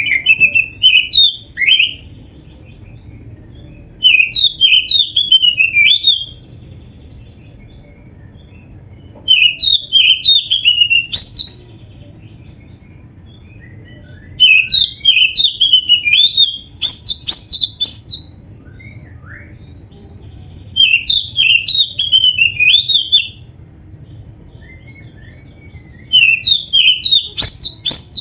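Oriental magpie-robin (kacer) singing in short bouts of rapid, varied whistled phrases, about two seconds each and roughly every five seconds, six bouts in all. A faint steady low background noise lies underneath.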